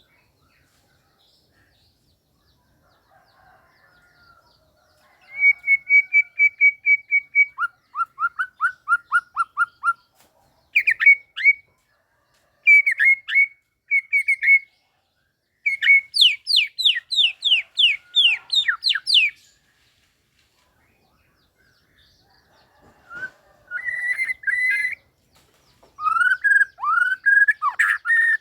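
White-rumped shama (murai batu) singing a series of varied whistled phrases with short pauses between them. The phrases include fast runs of repeated notes, quick down-slurred notes and steep falling sweeps.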